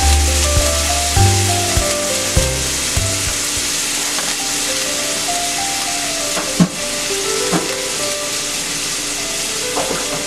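Sliced shallots and green chillies sizzling in hot coconut oil in a metal kadai: a steady frying hiss. A single sharp click about six and a half seconds in.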